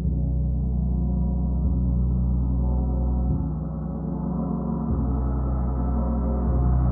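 Large gong played with a soft mallet in a sound bath: a deep, sustained wash of overtones, renewed by a fresh soft stroke about every one and a half seconds, growing brighter as the playing builds.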